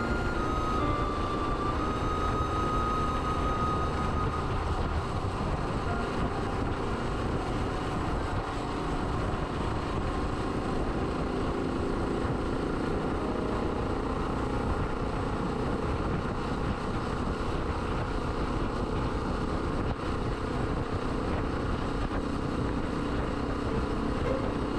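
Suzuki DR125S motorcycle's single-cylinder engine running steadily while riding, mixed with wind and road noise.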